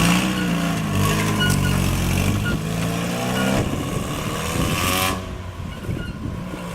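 NA Miata kart's four-cylinder engine running through its new homemade exhaust and muffler, revving up in pitch midway before the sound falls away about five seconds in. The new exhaust leaves it a lot quieter.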